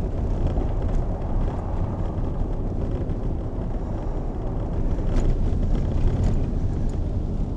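Steady low rumble of a moving vehicle, with nothing sharp or pitched standing out.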